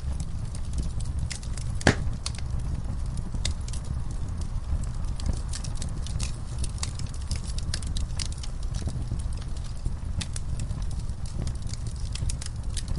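Wood fire burning in a fireplace: irregular crackling and snapping over a steady low rumble of the flames, with one loud pop about two seconds in.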